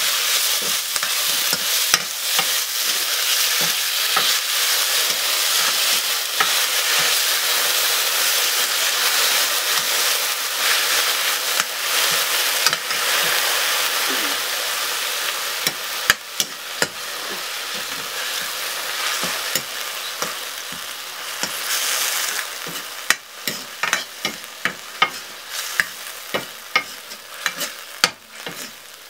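Leafy greens frying with a steady sizzle in a black iron wok while a ladle stirs them. The sizzle fades past the middle, and the ladle then scrapes and clacks against the pan again and again.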